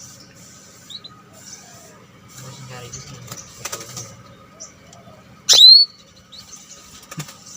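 Trucukan (yellow-vented bulbul) giving one loud, short call about five and a half seconds in, a sharp downward sweep that settles on a brief held note, amid faint chirps and rustling.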